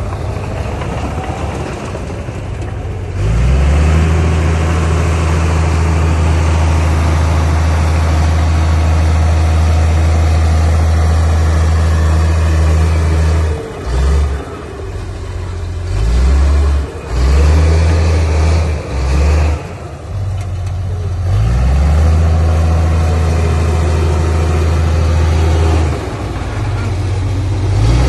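Heavy diesel earthmoving machinery working. The engine revs up about 3 seconds in, holds, then surges on and off several times and revs up again, with steady mechanical clatter underneath.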